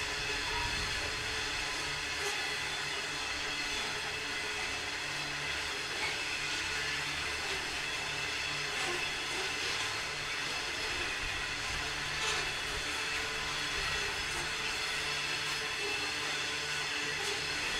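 Train rolling past: a steady running noise of wheels and wagons, with a few faint clicks.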